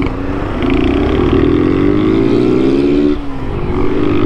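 Honda 160 cc single-cylinder motorcycle engine pulling under acceleration, its note climbing. About three seconds in it drops for a gear change, then climbs again.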